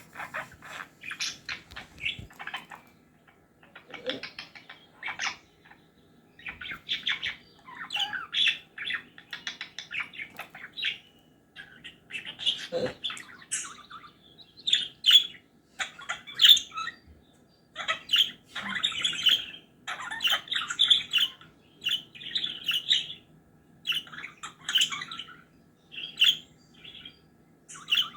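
Pet parrot chattering and squawking in a long run of short, harsh calls with brief pauses between them.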